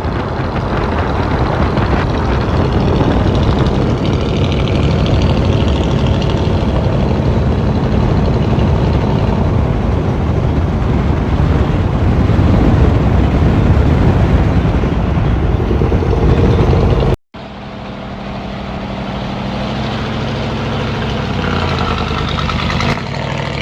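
Truck engine running, loud and steady. It cuts off abruptly about 17 seconds in and comes back as a steadier engine drone.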